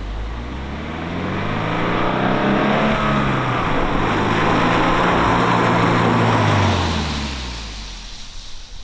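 Toyota GR86's flat-four engine running as the car drives, its note rising in pitch and growing louder over the first couple of seconds, holding steady, then dropping and fading away near the end.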